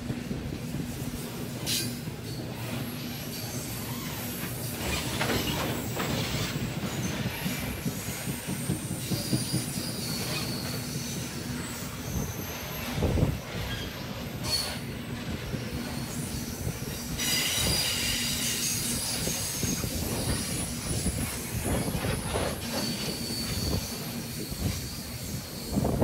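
Freight train tank wagons rolling past steadily, wheels clacking over the rail joints. High-pitched wheel squeal comes and goes and is strongest in the last third.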